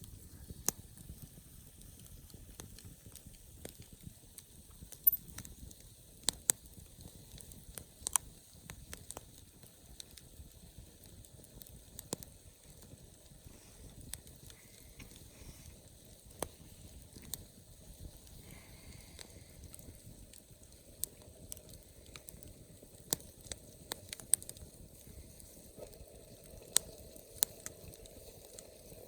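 Wood campfire crackling, with sharp pops scattered irregularly over a soft steady hiss of the burning.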